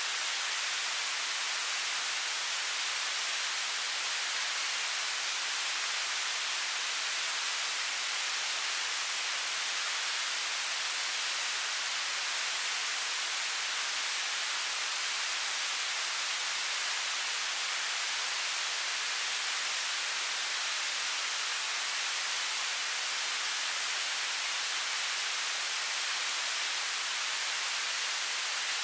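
Television static: a steady, unbroken hiss, strongest in the high frequencies and thin in the bass.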